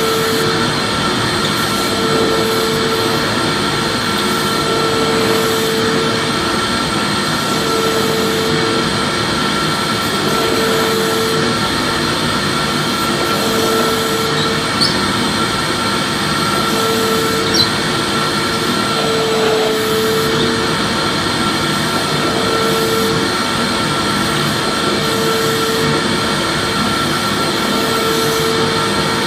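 Vacuum cleaner motor running steadily with a high whine over a rushing hiss. A lower hum swells and fades about every two and a half seconds, and there are two faint clicks about halfway through.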